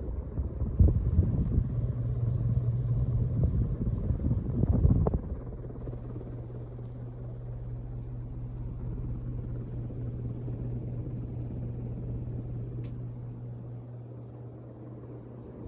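1980 Hunter Original ceiling fan's oil-bath motor running on high with a steady low hum. For the first five seconds a louder, gusty low rumble lies over it, then stops suddenly.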